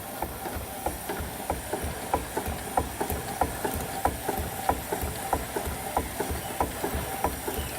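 Scale steam traction engine running, its mechanism clicking in an even rhythm a few times a second over a low rumble, growing slightly louder.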